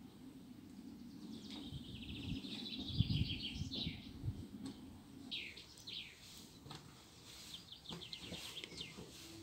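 Small birds chirping and trilling in quick, high runs, some calls falling in pitch. There are a few low thuds about three seconds in.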